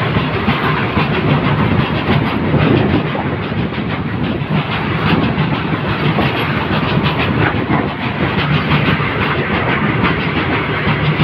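Open-top goods wagons of a long freight train rolling past close by: a steady, loud rumble of steel wheels on the rails, with a constant clickety-clack of wheels over rail joints.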